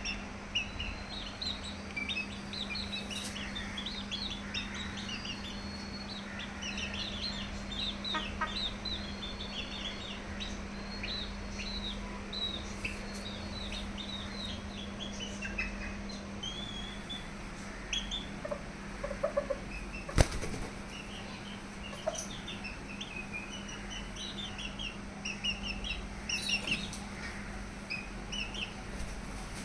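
Birds chirping: many short, high chirps scattered throughout, over a steady low hum, with a single sharp click about twenty seconds in.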